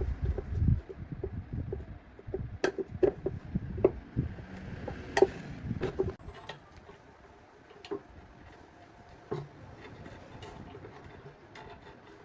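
A series of light clicks and knocks, irregularly spaced, over a low rumble that fades out about six seconds in; after that only a few scattered clicks.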